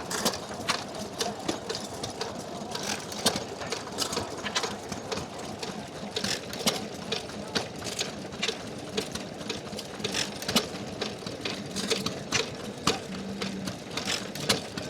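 Small International Harvester Famous hit-and-miss stationary engine running, a steady uneven clatter of sharp clicks and knocks, several a second.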